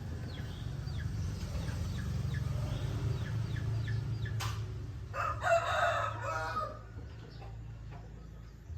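A rooster crows once about five seconds in, a call of about a second and a half and the loudest sound here. Before it, a small bird chirps in a quick repeated series. A steady low hum runs underneath.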